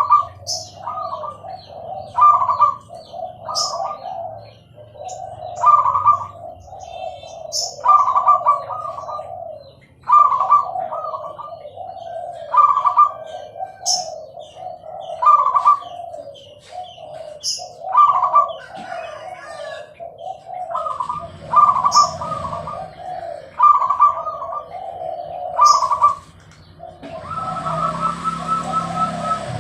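Zebra dove (perkutut) singing steadily, one cooing phrase about every two seconds, some with a sharp high note at the start. A hiss comes in near the end.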